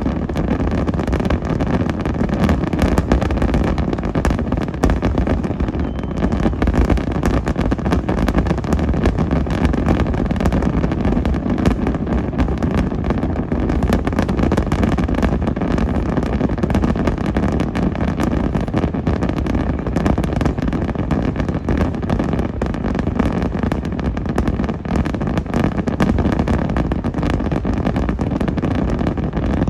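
Many fireworks bursting in rapid, continuous succession, the booms overlapping into one dense, loud barrage.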